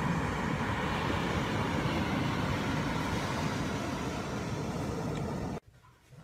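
Steady rushing wind on the microphone at a beach, heaviest in the low rumble; it cuts off suddenly about five and a half seconds in.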